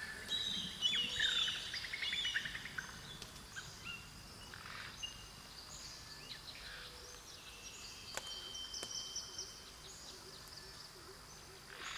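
Several birds calling and chirping, busiest in the first few seconds, with a quick run of repeated rising notes; fainter calls go on after that.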